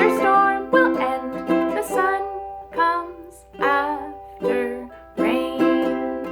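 A woman singing a gentle song to her own strummed ukulele, a chord strummed every half second or so.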